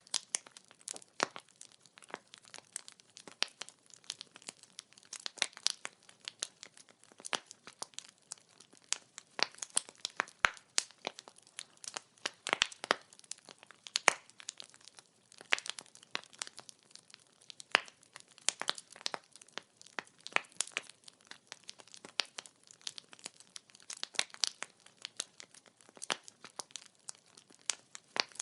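Burning firewood crackling and popping, with irregular sharp snaps scattered over a faint steady hiss.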